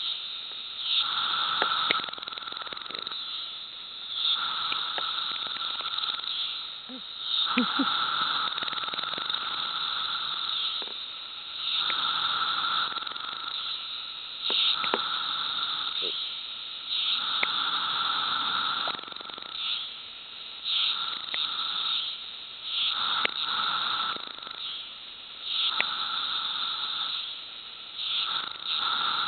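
Magicicada cassini periodical cicadas calling: loud buzzing calls that swell and fade every two to three seconds over a continuous chorus of more cicadas.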